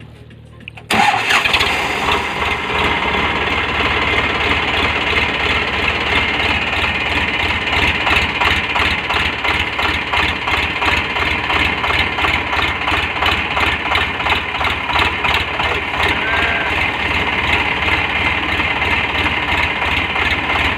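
Tractor diesel engine that comes in abruptly about a second in and runs loud and steady, with an even, quick beat of firing pulses.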